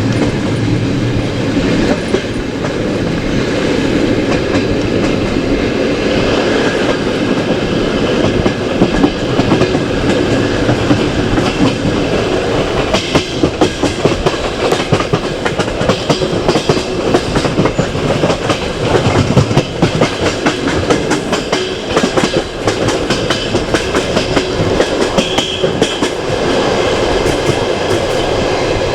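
Passenger train carriage running on the line, its wheels clattering over the rails with many irregular sharp knocks through most of the stretch, over a steady rumble.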